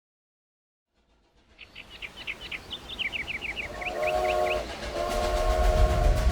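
Steam train sound effect: after a moment of silence, a rhythmic chugging builds up under quick high chirps. Then a chord-toned train whistle blows about four seconds in, breaks off briefly and sounds again.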